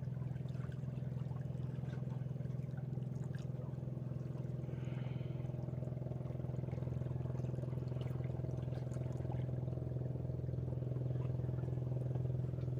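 An engine running steadily at an even pitch, a constant low drone with no change in speed.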